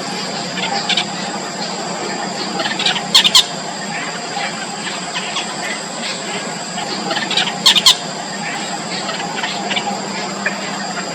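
Yellow bittern nestlings squealing in the nest: a run of short, high begging squeaks, with two louder bursts of sharp squeals about three seconds in and again near the middle.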